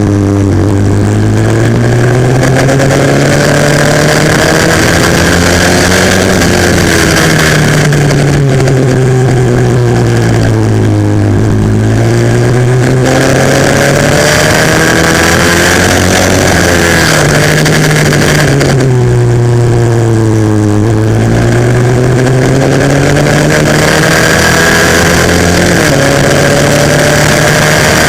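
140cc four-stroke single-cylinder pit bike engine at race pace, loud and close: its pitch drops away and climbs again several times as the rider rolls off and gets back on the throttle.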